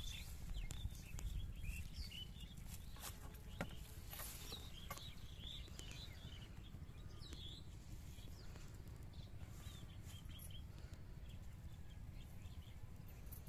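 Small birds chirping in short, quick calls, thick in the first half and sparser later, over a steady low rumble.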